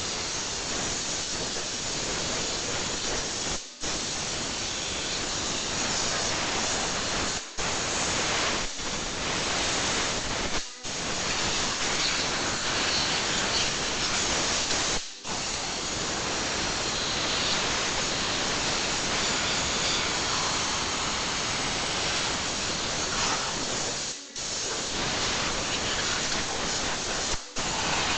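Compressed-air blow gun hissing steadily as it blows water out of a freshly washed car engine bay to dry it. The air cuts off briefly about six times.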